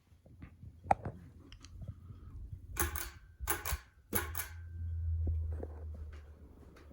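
Ceiling fan running with a low hum that swells about two thirds of the way through, after a sharp click and three short rattling noises.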